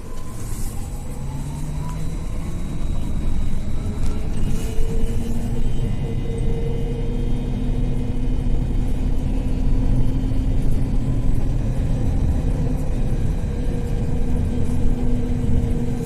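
BKM 42003A 'Vitovt' trolleybus moving off and running, heard from inside: the electric traction drive's whine rises in pitch over the first couple of seconds, then holds as several steady tones over a low road rumble.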